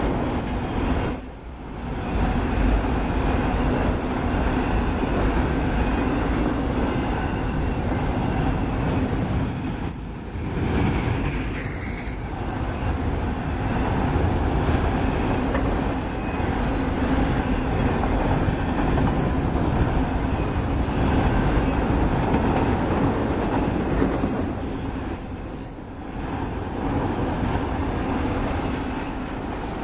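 Union Pacific autorack freight cars rolling past on the rails: a steady, loud rumble of steel wheels on track that dips briefly a few times.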